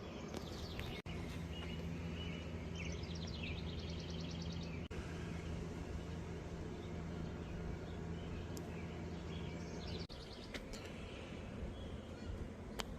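Songbirds chirping in quick trills over a steady low hum, with outdoor background noise; the sound drops out briefly three times where the clips are cut together.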